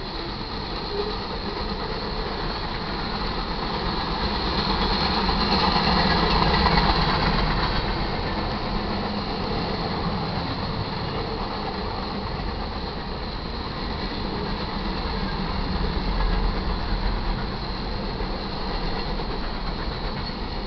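Freight cars of a BNSF manifest train rolling past: a steady rumble of steel wheels on rail, swelling louder about six seconds in and again later.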